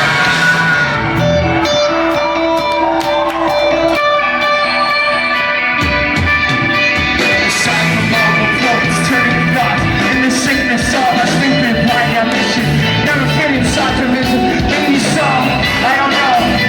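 Live rock band playing, with guitars over drums and bass, and some singing. The sound is thinner for the first few seconds and fills out with heavy bass and drums about six seconds in.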